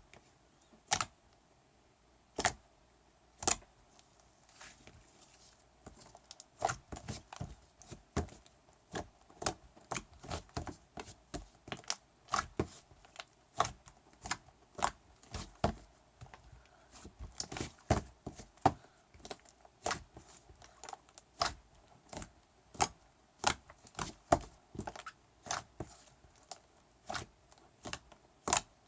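Slime being worked by hand, giving sharp, irregular clicking pops. They come only now and then at first, then about two a second from about six seconds in.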